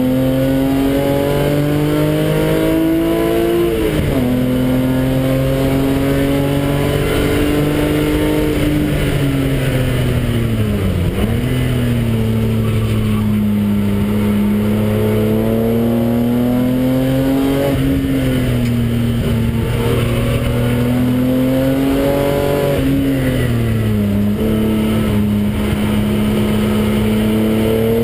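BMW engine heard from inside the cabin while driven hard on a lap. Its note climbs steadily under acceleration and drops sharply several times at gear changes and lifts for corners.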